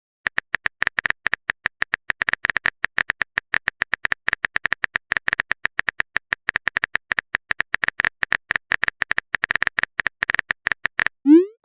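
Rapid, irregular clicking of a phone keyboard typing sound, about eight to ten clicks a second, stopping shortly before the end; a short rising tone follows near the end.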